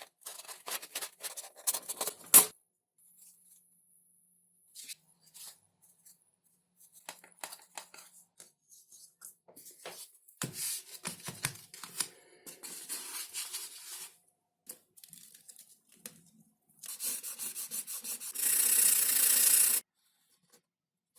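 Close-up workshop handling noises from building a foam model plane: scattered clicks, rubbing and tearing scrapes. Near the end comes a loud, steady hissing scrape about two seconds long that stops abruptly.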